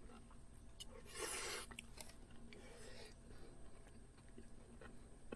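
Faint sounds of a person eating curry rice: chewing, with a few light clicks and one short burst of scraping noise about a second in.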